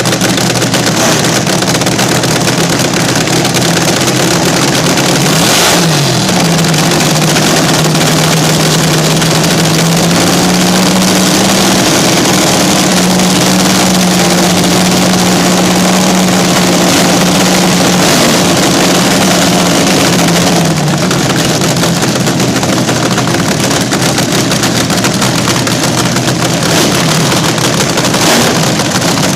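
Vintage slingshot dragster engine running loud and steady; it is revved up about six seconds in, held at higher revs for about fifteen seconds, then drops back down.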